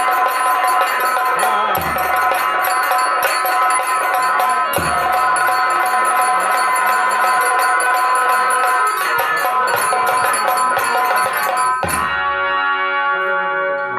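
Nagada folk dance music: drum strokes under rapid metallic jingling and steady held notes. About twelve seconds in the drumming and jingling stop, leaving only the held notes.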